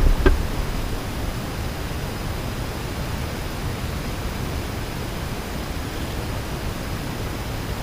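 Steady, even outdoor background hiss, with a brief low rumble and a click right at the start.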